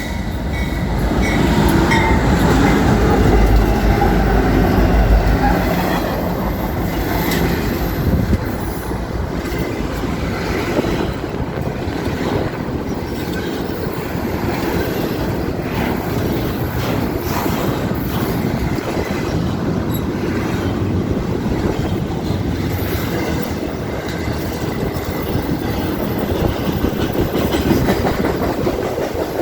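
BNSF freight train rolling past, its cars rattling and the wheels clicking over the rail joints. It is loudest in the first few seconds. Wind buffets the microphone.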